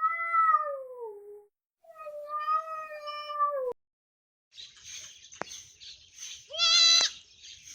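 Domestic cat meowing: two long meows, the first sliding down in pitch, the second held steady and cut off abruptly. After a short gap comes a hissing background with a couple of clicks and one short animal call near the end.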